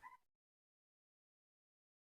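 Near silence: a brief faint tail of the preceding clucking call dies out in the first instant, then dead silence.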